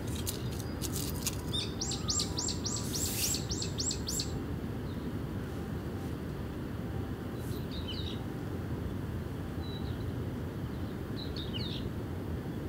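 A small bird calling: a rapid run of about nine similar high notes over roughly three seconds, then a few short chirps later on, over a steady low background rush. A few crackling clicks of aluminium foil being handled come near the start.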